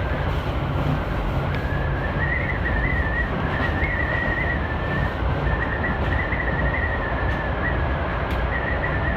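Keisei 3000 series electric train running along the track: a steady rumble of wheels and motors, with a high wavering squeal that comes in about a second and a half in and holds on.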